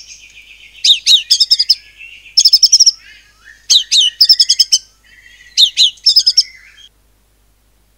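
White-rumped shama singing in its 'nembak' style: four loud phrases, each opening with a couple of descending slurred whistles followed by a fast run of repeated sharp notes. The song cuts off suddenly about seven seconds in.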